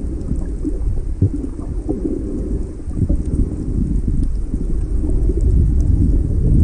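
Underwater ambience: a steady low rumble of moving water with faint crackles, growing a little louder about halfway through.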